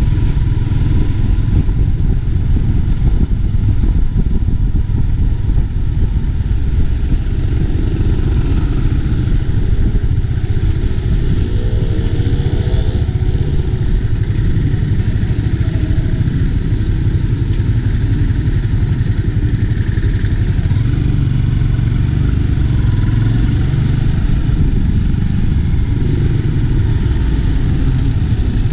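Yamaha Y15ZR 150cc single-cylinder four-stroke moped engine running while being ridden through town traffic, heard under a steady low rumble of riding noise.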